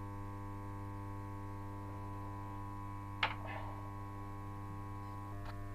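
Steady electrical mains hum, one unchanging buzzing tone with its overtones, broken about three seconds in by a single sharp click.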